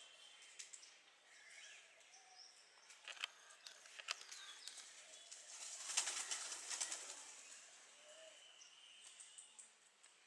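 Faint birds chirping, with short scattered calls and a few sharp clicks. A brief louder rustle like fluttering wings comes about six seconds in.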